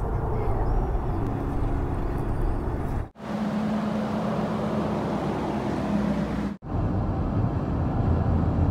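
Steady rumble of a moving car's road and engine noise, cut off abruptly twice, about three and six and a half seconds in, like separate clips joined together. A steady low hum runs through the middle piece.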